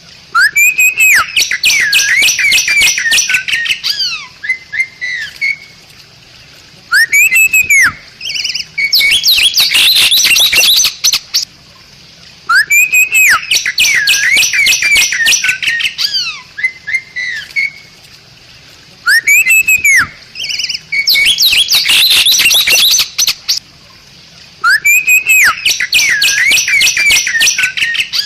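Bali myna singing: the same loud phrase over and over, an arching whistled note followed by a rapid run of sharp chattering notes, about every six seconds.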